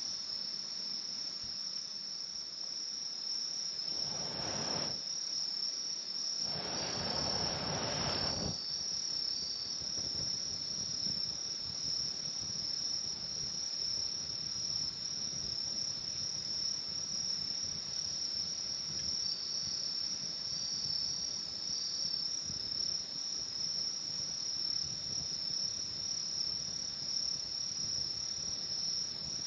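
Steady chorus of insects, a continuous high-pitched trill typical of crickets, with a fainter second insect call coming and going just below it. About four seconds in, and again around seven seconds, two brief swells of rushing noise rise and fall.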